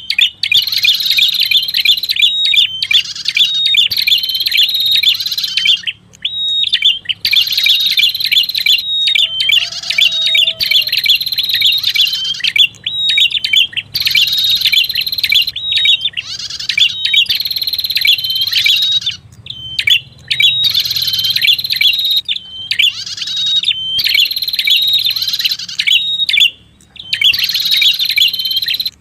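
Lure-call recording of the prenjak kepala merah, a small Indonesian warbler: rapid high chirping song phrases, each a second or two long, repeated over and over with short pauses between them.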